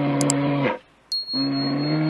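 Cow mooing twice: two long, level-pitched calls, the first ending under a second in and the second starting about a second and a half in.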